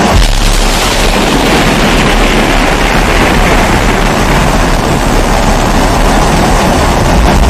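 Pressurised kerosene stove (primus-type babour) burner hissing steadily at full flame, with a low rumble underneath that comes in just after the start.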